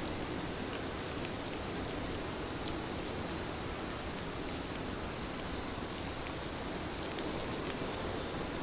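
Heavy rain falling steadily: an even hiss with scattered drop impacts.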